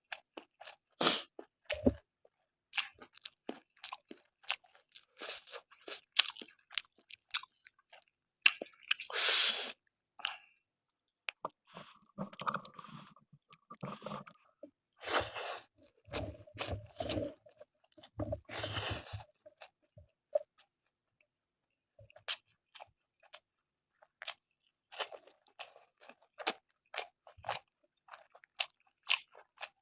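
A person eating close to the microphone: chewing and crunching with sharp wet mouth clicks in irregular bursts, pausing briefly about twenty seconds in.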